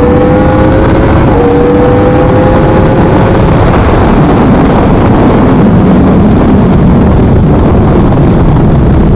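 2017 Yamaha R1's crossplane inline-four with a Leo Vince exhaust, running while the bike is ridden, its pitch rising slowly over the first few seconds. It is heavily overlaid by loud, steady wind rush on the microphone.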